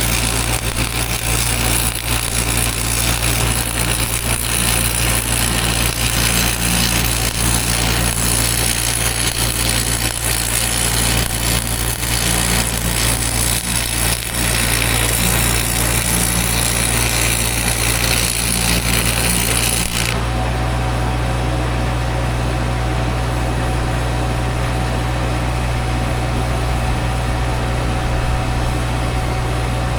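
Welding arc crackling steadily as weld is built up on a cracked boom pin, over the steady low hum of a running engine; about two-thirds of the way in the welding stops suddenly and only the engine hum goes on.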